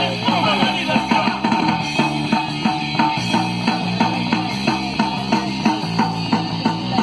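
Rock music with electric guitar and drum kit, played to a steady, even beat.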